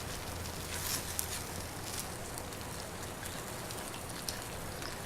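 Milk gravy cooking in a pan on the stove: a steady soft crackle with scattered small ticks.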